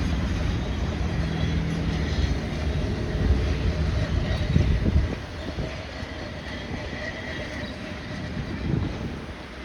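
Heritage train moving along the line, its locomotive rumbling loudly for about five seconds before fading, with a faint ringing of wheels on rail later on.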